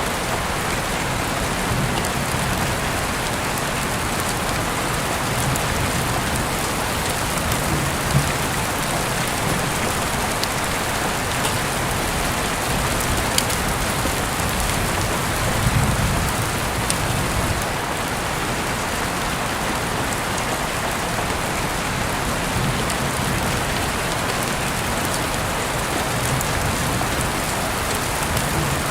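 Heavy rain falling steadily as an even hiss, with scattered drop ticks and a few brief low swells.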